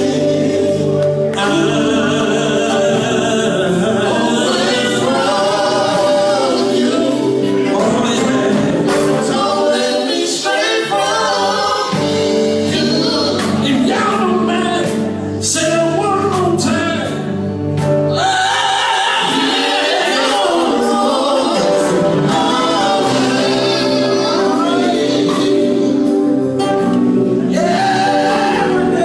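Gospel vocal group singing in harmony, with voices holding chords and moving lines over them.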